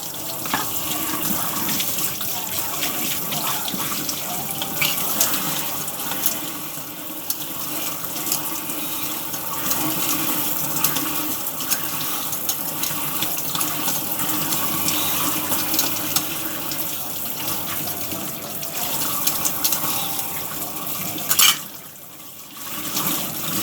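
Kitchen tap running into a sink, a steady splashing water noise, with a sharp knock about 21 seconds in, after which the water noise drops away.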